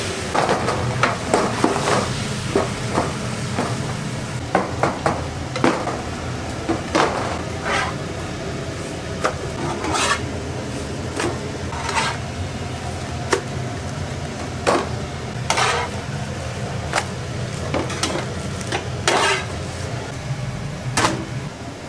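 Kitchen utensils clinking and knocking against pans and dishes in irregular strokes, roughly one a second, over a steady low hum.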